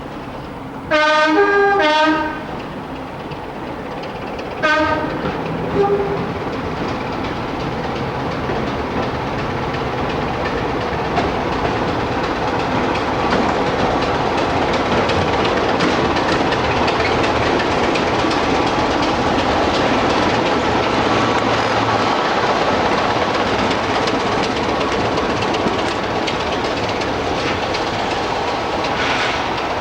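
A locomotive horn sounds two loud blasts about a second in, then a shorter one a few seconds later. A train then runs past, its rumble and clatter on the rails growing steadily louder.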